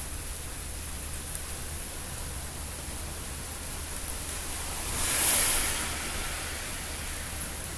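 Steady hiss of rain during a thunderstorm, with a low hum underneath. About five seconds in, a brief whoosh swells up and fades away.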